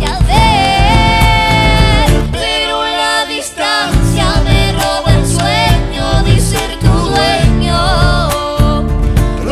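Argentine folk song performed live: a voice sings a melody, holding a long note near the start, over acoustic guitars and electric bass. The bass drops out for a moment about two and a half seconds in, then returns.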